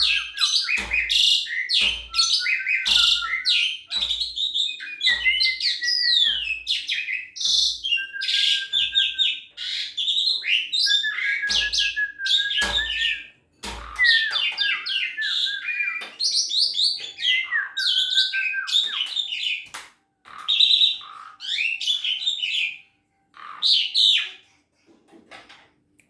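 Young Asian pied starling (jalak suren) singing a varied, busy song of clear whistles, rattling notes and chatter, broken by short pauses. Low knocks come at a regular pace through the first half.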